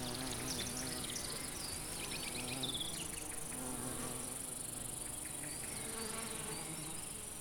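Bumblebees buzzing around nectar flowers: a steady droning hum whose pitch wavers slightly as they fly, with faint high chirps in the first few seconds.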